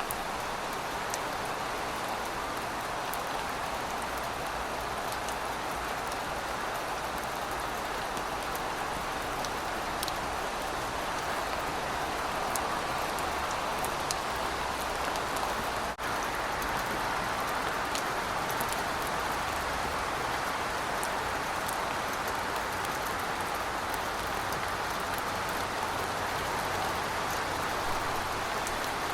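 Steady rain falling on pavement: an even hiss with scattered single drops ticking through it.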